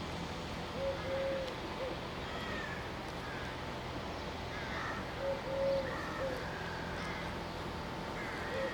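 A dove cooing a three-note phrase, short–long–short, repeated three times about every four seconds. Other small birds chirp faintly over a steady low hum.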